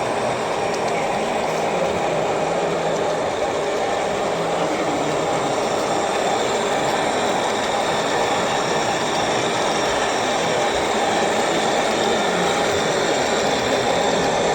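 HO-scale model diesel locomotive running on layout track, giving a steady train-like running sound without a break.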